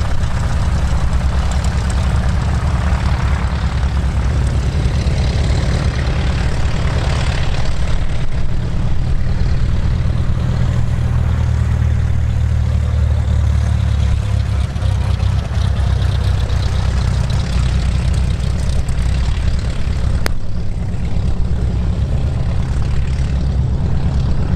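Rutan Long-EZ's rear-mounted piston engine and pusher propeller running steadily at low taxi power, swelling slightly for a few seconds midway.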